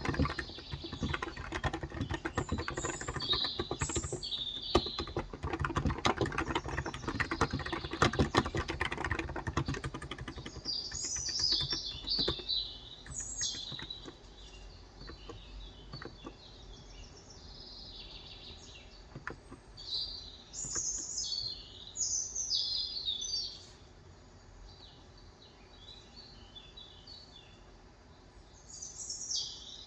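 Typing on a Cox Endeavor electrostatic-capacitive (contactless) tenkeyless keyboard with 35 g switches: fast, continuous keystrokes for about the first ten seconds, then only a few scattered keys. Birds chirp in short bursts throughout.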